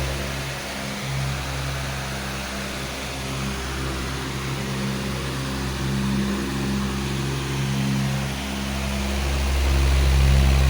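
Powerful electric fan running steadily: a low motor hum under a broad rush of air, swelling somewhat louder near the end.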